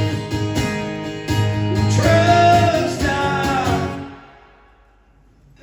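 Live country song ending: strummed acoustic guitar and a solo voice holding a last sung note, the final chord ringing out and fading away about four seconds in.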